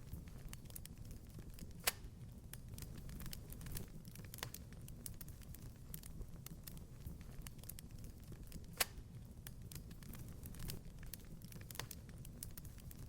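Wood fire crackling in a fireplace: a steady low rumble of flames with frequent small crackles, and two louder pops, one about two seconds in and another near nine seconds.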